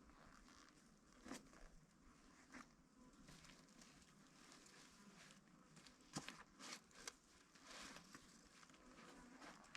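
Faint, irregular rustling and crinkling with a few sharp little clicks: something being handled up close.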